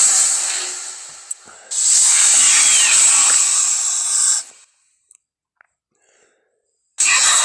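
Film sound effects of a velociraptor: long, breathy hisses. The first fades away, a second hisses for nearly three seconds and cuts off suddenly, and after a few seconds of near silence another hiss starts near the end.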